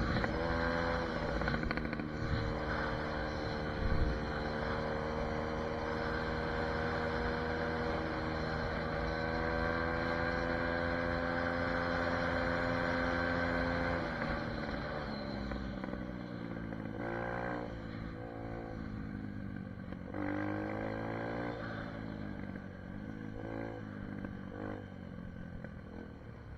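SSR 150 dirt bike's single-cylinder four-stroke engine running at steady revs for the first half, its pitch creeping slowly upward. After about halfway the revs drop and then rise and fall several times, as the rider works the throttle and gears.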